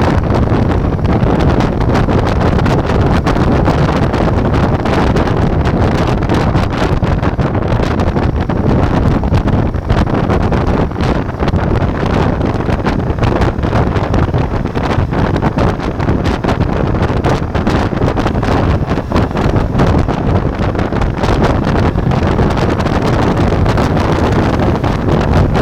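Steady wind buffeting on an action-camera microphone while riding a Ducati Multistrada V4 motorcycle, with the bike's engine and road noise running underneath.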